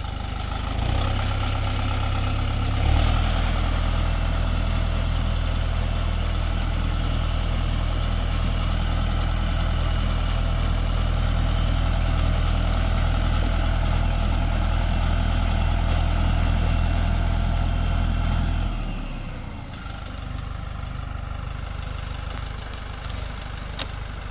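Tractor engine running steadily under load while working a fork load, a low even drone that grows a little louder about three seconds in, then drops off abruptly near the end to a quieter running.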